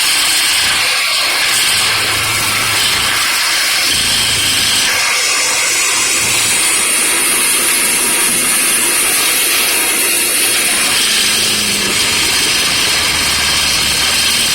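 Machinery engine running steadily, a low hum under a loud, even hiss.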